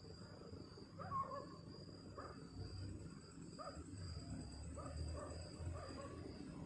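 Night outdoor ambience: insects trilling steadily high up, a low wind rumble, and a series of faint, short animal calls about once a second.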